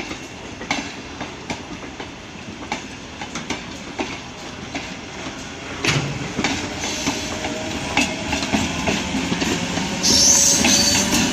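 MEMU electric multiple-unit train running on the line, its wheels clicking steadily over the rail joints; the sound grows louder about halfway through, and near the end a high wheel squeal sets in.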